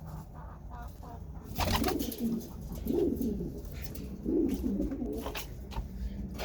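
Domestic pigeons cooing: three low, warbling coos about a second apart, with a few short scuffling sounds in between.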